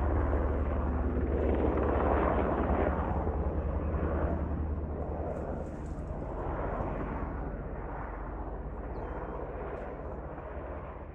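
MH-60 helicopter's rotor and turbine noise: a low steady hum under a rushing sound that swells and ebbs every couple of seconds, fading gradually away.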